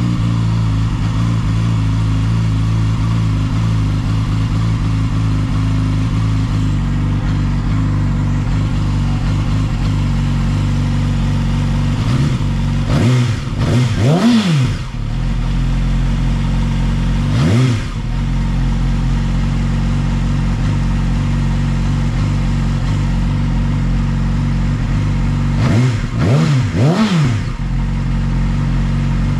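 Yamaha R6 inline-four sport-bike engine idling steadily through an Akrapovič short slip-on exhaust. It is blipped in quick throttle revs: a couple about halfway, one more a few seconds later, and another few near the end, each rising and dropping straight back to idle.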